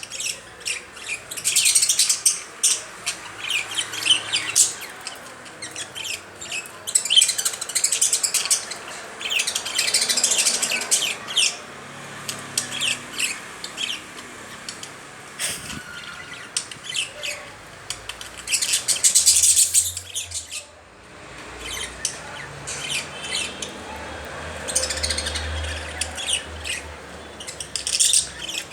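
Small pet parrots kept as love birds chirping and chattering in quick high-pitched bursts, several birds calling at once with short pauses between flurries.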